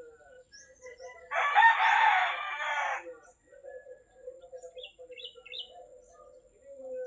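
A rooster crows once, starting about a second in and lasting under two seconds, the loudest sound here. Small birds chirp and twitter around it.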